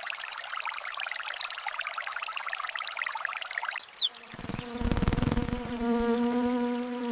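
Rain pattering in quick small drops, which stops about four seconds in. Then a flying insect buzzes in with a steady hum, fluttering as it starts.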